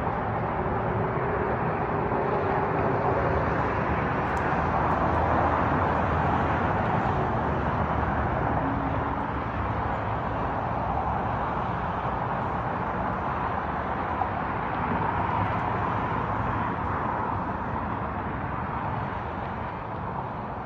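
Steady outdoor rushing noise with no distinct events, swelling slightly a couple of times and easing off near the end.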